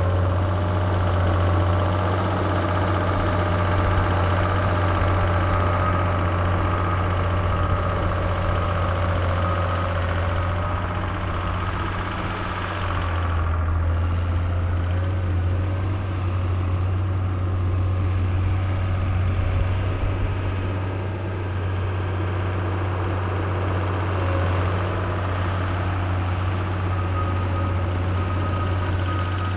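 Diesel locomotive engine idling steadily: a constant low hum with a faint steady whine above it.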